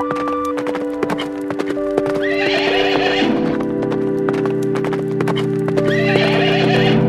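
A horse neighs twice, over a rapid clip-clop of hooves and background music with held notes.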